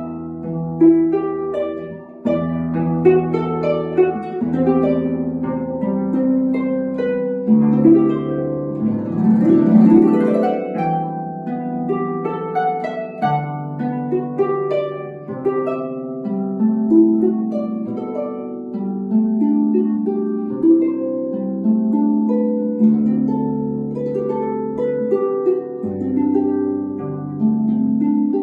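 Harp playing a melodic piece: plucked notes over a low bass line, with a dense flurry of notes around the middle.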